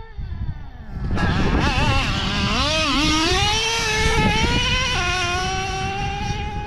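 Nitro-powered RC truck engine running hard, coming in loudly about a second in. Its pitch wavers up and down with the throttle, then drops suddenly about five seconds in as the two-speed transmission shifts up.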